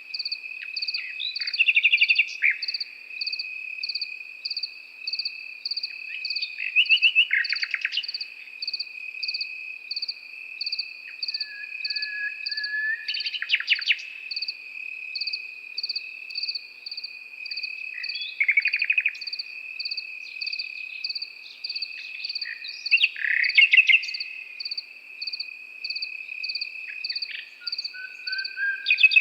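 A nightingale sings short phrases of rapid repeated notes and whistles every few seconds over crickets: one cricket trills continuously, another chirps in an even, regular pulse.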